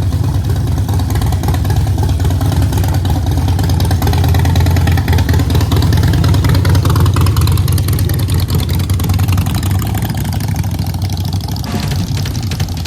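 Harley-Davidson V-twin motorcycle engine running steadily with a loud, deep low tone.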